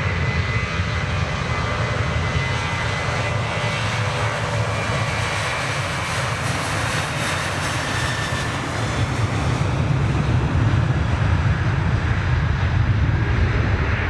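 Jet airliner engines heard as the aircraft moves on or near the runway: a steady, loud rumble with an even noise above it, swelling slightly about ten seconds in.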